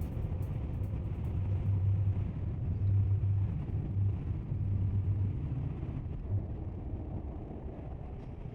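Low, steady rumble of turboprop airliner cabin noise from an ATR 72, gradually growing quieter over the last few seconds.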